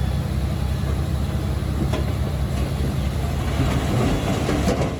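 Heavy diesel earth-moving machine running steadily, with metallic clanking and rattling that grows busier toward the end.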